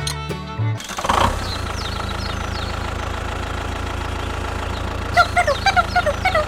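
A short stretch of music cuts off just under a second in, and a steady engine idling drone takes over. From about five seconds in, a run of short, squeaky chirps sounds over the engine.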